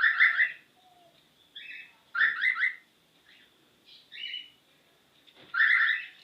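A cockatiel imitating a car lock's chirp: about five bursts of quick, high chirps, coming every second or so.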